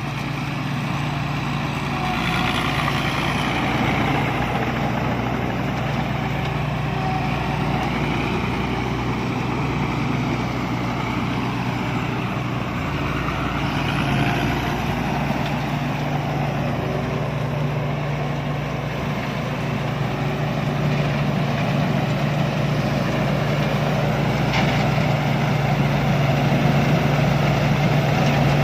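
Rice combine harvester's engine running steadily under work, with a constant low hum and the rattle of the machinery over it, growing a little louder near the end.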